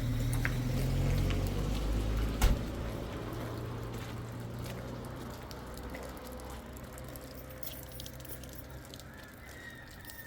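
An engine running steadily with a low hum that fades gradually, as of a vehicle moving away, with a single sharp knock about two and a half seconds in.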